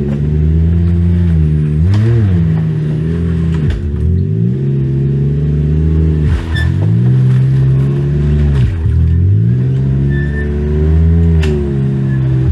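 Side-by-side UTV engine revving up and down, its pitch dipping and climbing back several times as the throttle is let off and pressed again, with a few sharp knocks.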